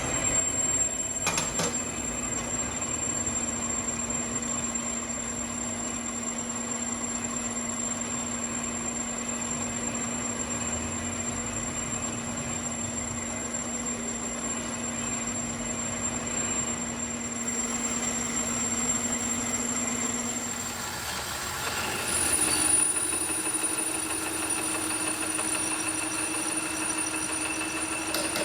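Metalworking machinery running steadily with a low hum and a high-pitched whine. The machine's tones change a little past two-thirds of the way through, where a new, slightly higher hum and whine take over.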